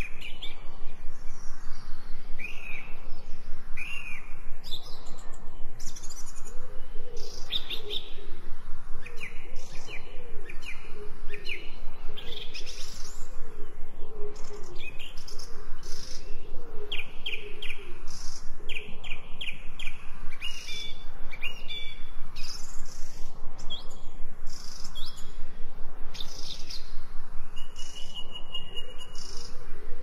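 Several birds singing: a busy run of short high chirps and quick trills, with a lower wavering call through the middle and a steady held high note near the end.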